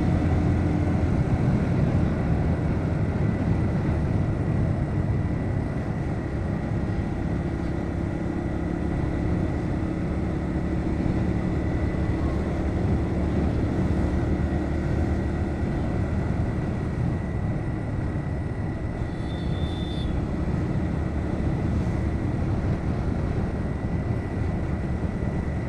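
Bajaj Pulsar NS125's single-cylinder engine running steadily while riding, under continuous wind and road noise.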